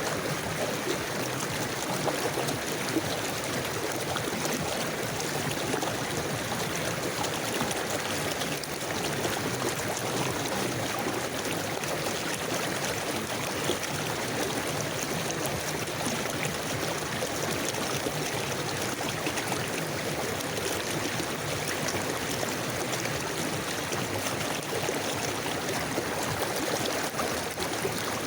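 A river flowing steadily over stones, a continuous rushing and gurgling of water.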